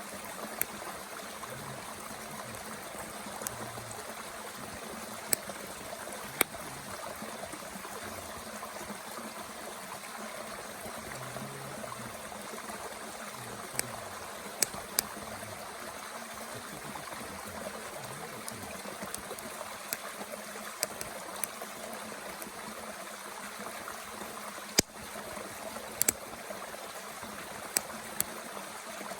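Mountain stream running steadily, with scattered sharp pops and crackles from a wood fire burning in a small Bush Box stove.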